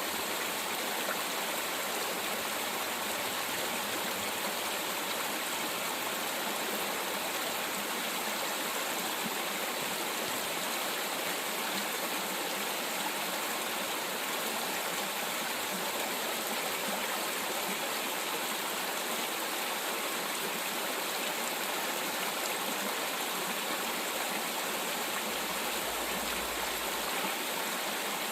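Mountain stream running, a steady rush of flowing water.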